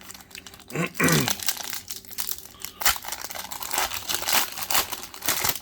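A Pokémon booster pack's foil wrapper being crinkled and torn open, a dense run of crackles and rustles, with a brief voice sound about a second in.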